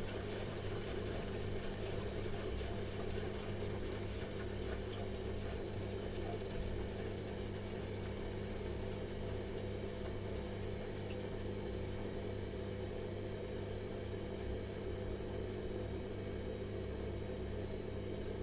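Washing machine running steadily: a constant motor hum with a whirring drum noise over it, unchanging throughout.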